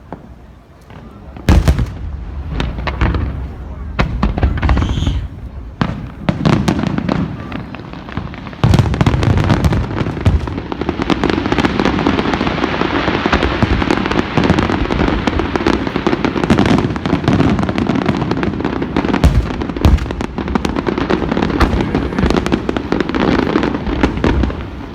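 Fireworks display: a few sharp shell bursts from about a second and a half in, then from about nine seconds a dense, continuous barrage of bangs and crackle.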